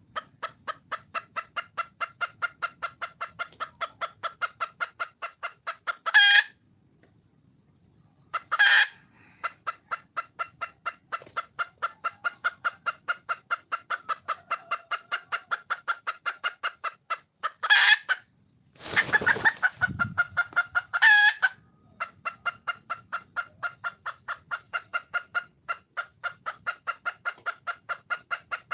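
Junglefowl hen (wild chicken) clucking in long, even runs of about five clucks a second, broken four times by a louder, longer call; this is the hen's call to attract a male. A brief rustling noise comes about two-thirds of the way through.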